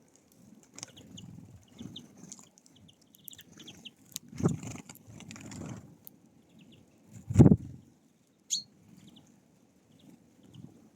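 Birds at a feeder: faint, short chirps of small songbirds, with a few dull thumps, the loudest about four and a half and seven and a half seconds in.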